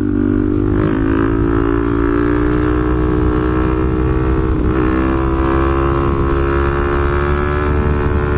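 Motorcycle engine running at a steady speed under wind rumble, its pitch rising slightly about a second in and dipping briefly about five seconds in.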